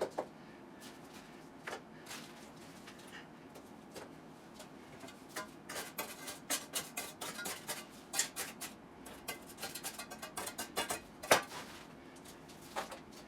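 Quiet clicks and scrapes of hand tools working wet concrete into a hole in the floor. The sounds come in a busy run in the second half, ending with one sharper click.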